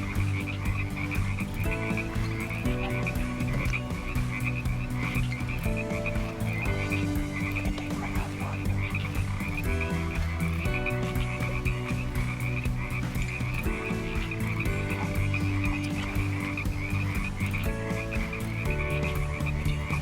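A chorus of frogs calling in a dense, fast, continuous trill, with a lower pattern of sustained notes that change pitch every second or two, like a background music bed with a steady beat.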